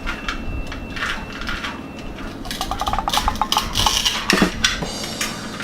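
Plastic toy playset pieces being handled and set down, clicking and clacking, with a quick run of small clicks about halfway through.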